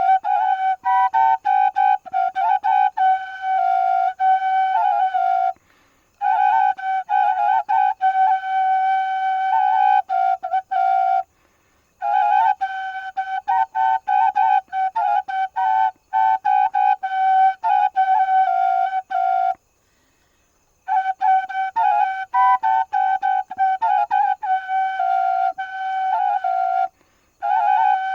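Solo melody on a single flute-like wind instrument: quick, repeated short notes moving within a narrow, fairly high range. The phrases are broken by brief pauses, the longest about a second.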